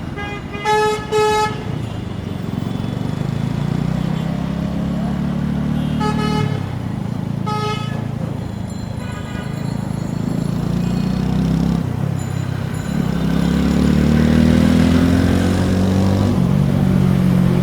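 TVS Apache RTR 4V motorcycle's single-cylinder engine running through its exhaust, its pitch shifting with the throttle and climbing steadily from about halfway through. A vehicle horn beeps over it: a quick double beep at the start, single beeps about six and seven and a half seconds in, and a fainter one soon after.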